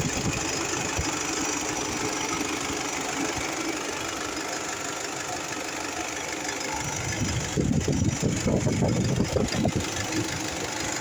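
Honda City car engine idling steadily, with a louder, uneven low rumble for a few seconds near the end.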